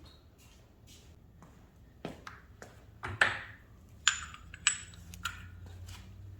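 Steel tools clinking: a handful of sharp metal knocks, the loudest three in the middle, each with a short high ring.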